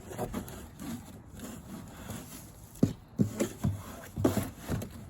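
A hand rummaging inside a box: faint rustling, then a run of dull knocks and bumps from about three seconds in.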